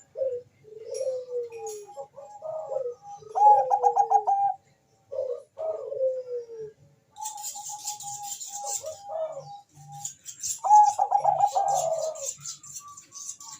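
Bangkok-strain zebra doves (perkutut) cooing in quick, repeated phrases, each a few stuttering notes ending in a falling or trilled coo. Two birds appear to answer each other at slightly different pitches. From about seven seconds in, a high, fast-ticking hiss runs along under the cooing.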